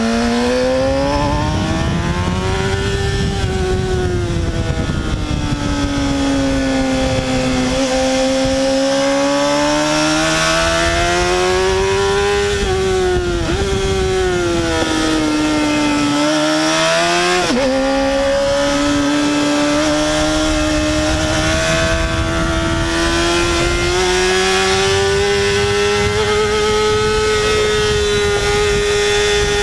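Honda sport bike engine running hard on a racetrack, heard onboard. Its pitch climbs and falls as the rider works the throttle through corners, with two brief sharp dips in pitch about 13 and 17 seconds in, over steady wind hiss.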